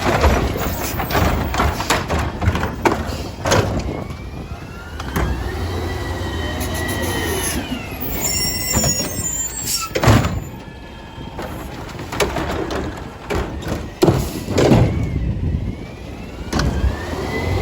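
Garbage truck with a Curotto-Can automated arm at work over its running diesel: sharp clanks and bangs of metal on metal, with a pitched whine from the hydraulics that rises and falls twice.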